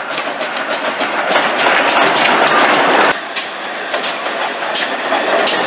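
Train running on the rails, with a steady rushing noise and repeated clicks of wheels passing over rail joints; the sound changes abruptly about three seconds in.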